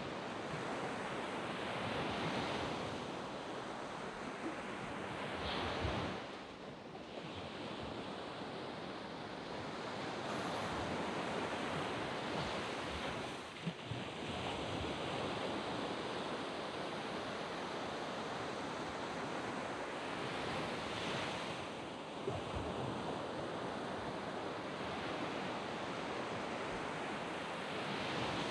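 Waves breaking and washing up a sand beach, a steady surf hiss that swells as each wave comes in, with wind on the microphone.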